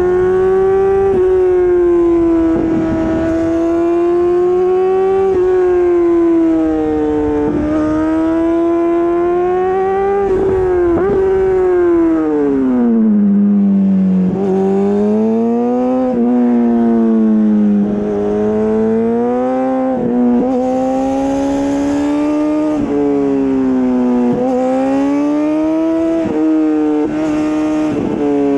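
Honda CBR600RR's inline-four engine running through an Akrapovic exhaust while riding: a high engine note that rises and falls with the throttle, drops lower about halfway through, then climbs again.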